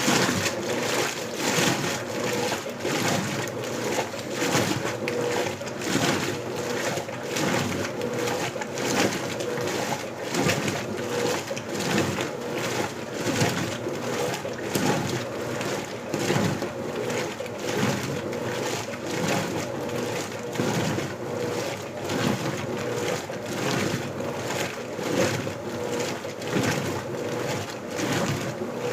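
Electrolux LBU15 top-loading washing machine agitating a load in turbo agitation mode: the agitator swishes back and forth in the water in a steady rhythm of strokes, with water sloshing on each stroke.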